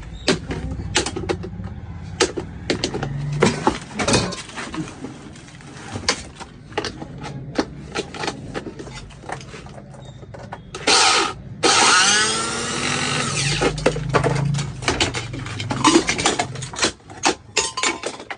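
Repair work on a kitchen mixer grinder: repeated clicks and knocks of tools and parts, with a small electric motor running in short spells. About two-thirds of the way through a louder burst of motor noise falls in pitch as it winds down.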